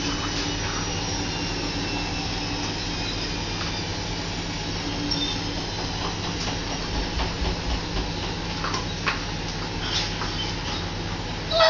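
Washing machine on its spin cycle: a steady mechanical hum and rumble, with a few faint knocks in the second half. A dog gives a short loud call at the very end.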